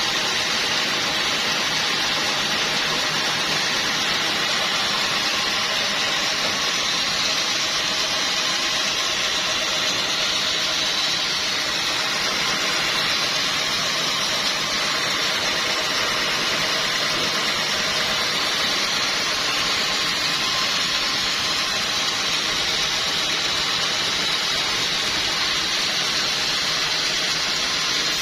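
Sawmill machinery running steadily: a constant, even hissing noise with a faint engine-like hum underneath.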